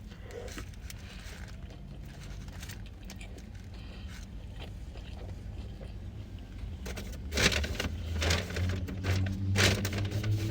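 Chewing, with faint clicks and rustling, over a steady low engine hum. About seven seconds in the hum grows louder, as if a vehicle is running close by, and sharper clicks and mouth noises come through.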